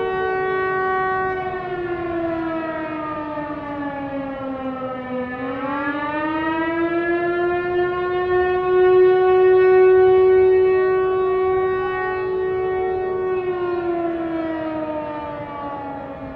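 Air-raid siren wailing: its pitch slides down for a few seconds, climbs back up and holds steady, then starts to fall again near the end.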